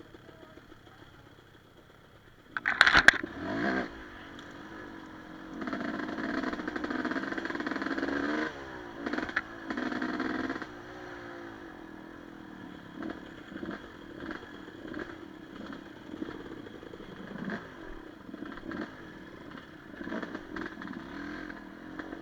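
Enduro motorcycle engine running and revving, rising and falling in pitch, with a sharp loud knock about three seconds in and repeated short clatters as it goes over rough ground.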